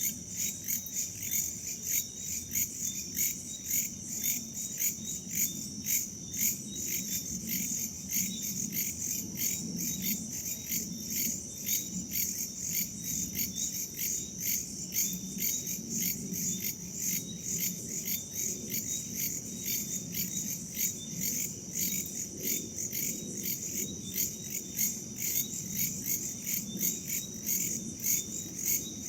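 Night chorus of crickets and other insects: a steady high-pitched trilling with regular pulsing chirps, about two to three a second.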